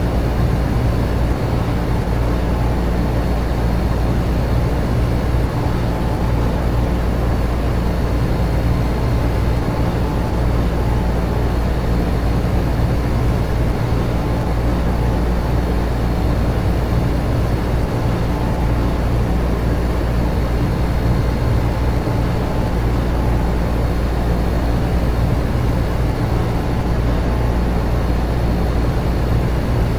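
Air conditioner and electric fans running together: a steady, even hum and rush of air, heaviest in the low end, with a few faint steady tones and no change.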